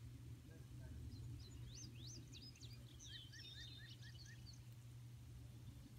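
Faint birdsong: a cluster of quick chirps and whistles, including a run of six short repeated notes, over a low steady rumble.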